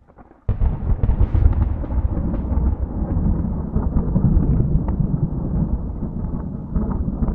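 Rolling thunder: a deep, continuous rumble that starts abruptly about half a second in and keeps going.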